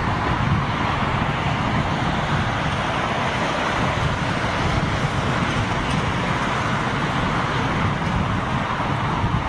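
Steady jet noise from a four-engined Boeing 747 passing on its landing approach.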